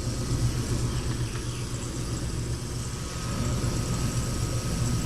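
Ultrasonic cleaner running its heated cycle: a steady low hum with a thin, even high tone over a faint hiss from the bath.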